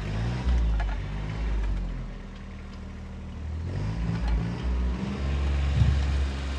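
Tractor engine running while driving on the snowy driveway, its engine speed changing and rising about two thirds of the way through.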